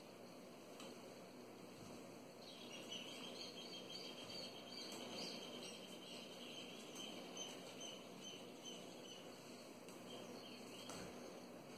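Faint chirping of small birds: quick, irregular high chirps from about two seconds in until near the end, over quiet room hiss.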